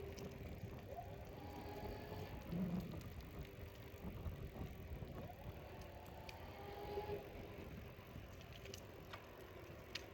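Electric bike in motion: a steady low rumble of wind and tyres, with a few light mechanical clicks from the bike.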